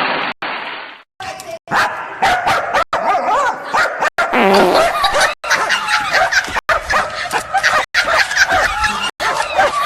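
Dogs yipping and barking in a quick string of short clips cut together, each broken off by a sudden gap, with some voices mixed in.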